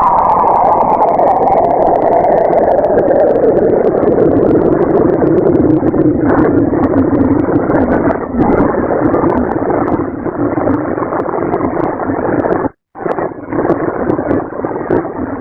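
Space-style sound made up as the voice of a moon: a loud, crackling noisy drone whose pitch slides down over the first six seconds and then holds low, cutting out briefly near the end.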